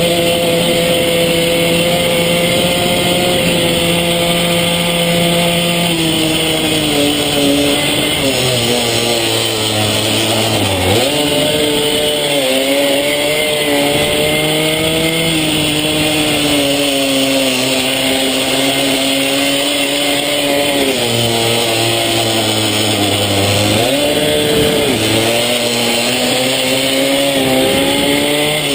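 Small single-cylinder pitbike engine ridden hard around a track, its pitch holding, dropping off for corners and rising again as the throttle opens, with step changes in pitch at the gear changes.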